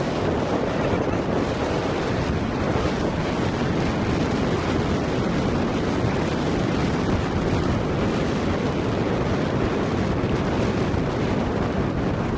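Steady wind buffeting the microphone, with the wash of wind-driven water around the kayak.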